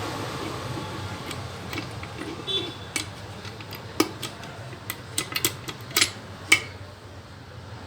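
Metal tools and engine parts clicking and clinking as they are handled during motorcycle engine repair: a dozen or so separate sharp clicks, the loudest about four seconds and six and a half seconds in, one of them ringing briefly.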